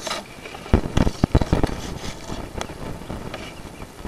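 A sewer inspection camera being pushed up a cast iron vent stack: a quick run of knocks and scraping about a second in as the camera head and push cable bump through hard-water scale, then a steady rumble.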